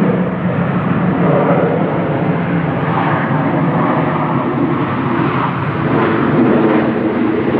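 Jet engines of a landing Boeing 737 airliner: a loud, steady rush of engine noise.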